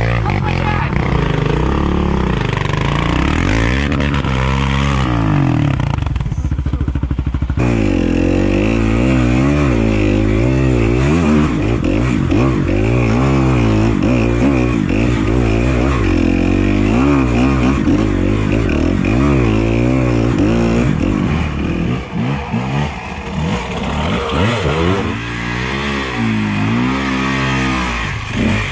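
Yamaha Raptor 700R SE sport quad's single-cylinder engine being ridden hard, revving up and falling back again and again. In the last several seconds the throttle comes off and on in short blips.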